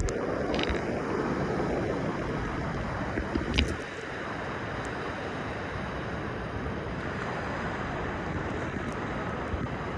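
Gulf of Mexico surf washing in on the beach as the water starts to come back in, with steady wind buffeting the microphone.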